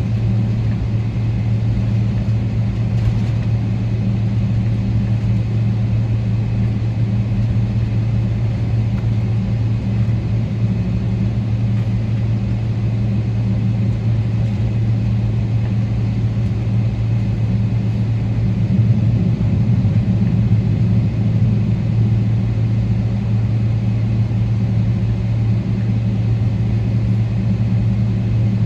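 Steady low drone and rumble inside the cabin of a Boeing 777-300ER on the ground, its GE90 engines at low power, with a constant deep hum. It grows a little louder for a few seconds about 19 seconds in.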